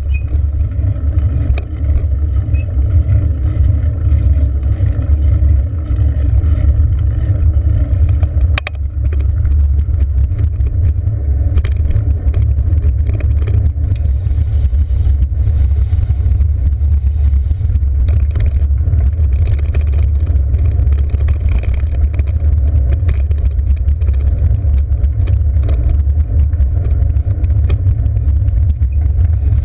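Steady low rumble of wind and road noise on a camera carried while cycling, with scattered light clicks and one sharp knock about eight and a half seconds in.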